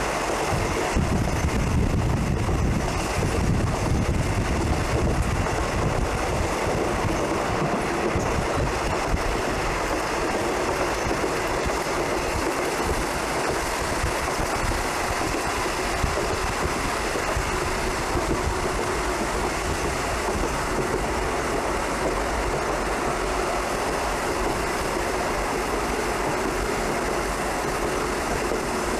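Passenger train running along the track: a steady rumble of wheels and running gear, heavier and lower for roughly the first eight seconds, then even.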